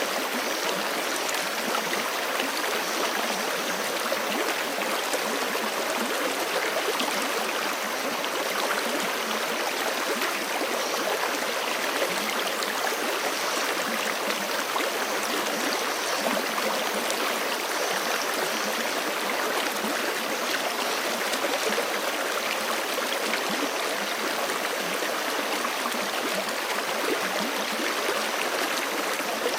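Forest stream running steadily over rocks, a continuous even rush of water.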